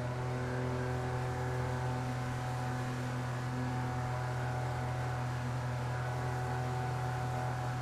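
Outboard jet motor of an inflatable river jet boat running steadily under way, a constant low hum with even overtones and a steady hiss of rushing air and water above it.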